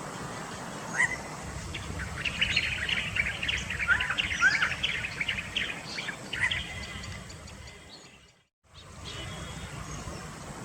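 Birds chirping in many quick, short notes, busiest in the middle, over low background noise; the sound cuts out for a moment about eight seconds in, then the background returns.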